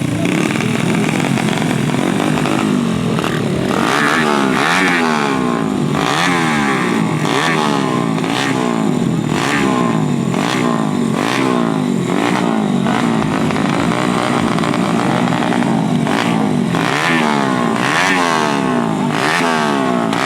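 Dirt bike engines revving again and again, the pitch climbing and dropping back about once a second after a steadier first few seconds.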